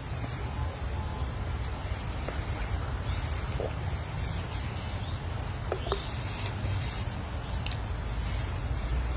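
Background ambience in a pause between speech: a steady high-pitched pulsing trill over a low steady rumble, with a few faint ticks.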